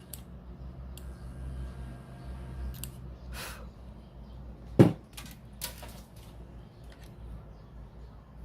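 Scattered clicks and knocks of small hard objects being handled, with one loud knock about five seconds in. A faint steady low hum sounds during the first three seconds.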